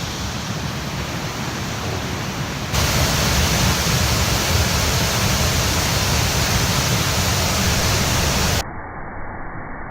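Waterfall in spate, a steady rush of heavy water. It jumps suddenly louder about three seconds in, then near the end drops abruptly to a quieter, muffled rush.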